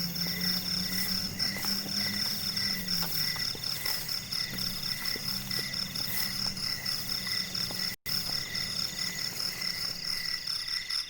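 Night chorus of crickets and other insects trilling steadily at several pitches, with frogs calling underneath. The sound cuts out for an instant about eight seconds in.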